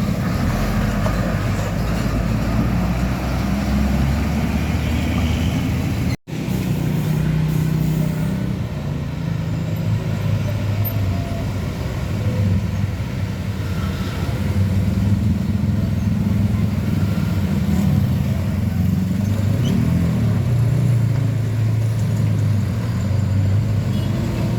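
Heavy diesel trucks running on a road, a low engine drone whose pitch shifts as they pass. The sound cuts out for an instant about six seconds in.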